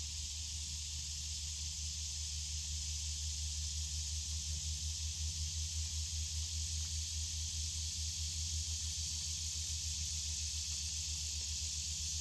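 Creek water running steadily, an even rushing hiss, with a low rumble underneath.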